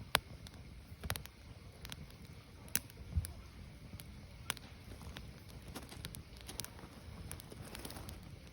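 Firewood burning, with irregular sharp crackles and pops about once a second over a low steady rumble of the fire.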